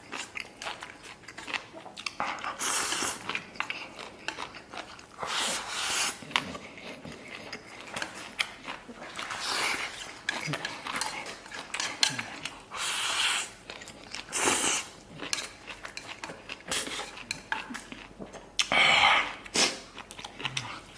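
Close-up eating sounds: chewing and biting mouthfuls, with many small clicks and taps of chopsticks or spoon against a bowl and plate. Several louder rushing bursts of under a second each break in, the loudest near the end.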